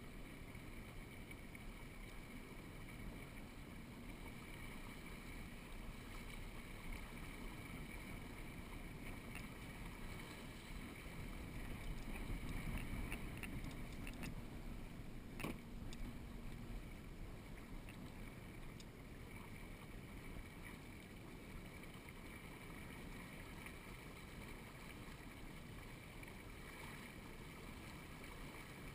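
Steady wash of water against a small sailboat's hull with low wind noise, swelling briefly about twelve seconds in, and a single knock a few seconds later.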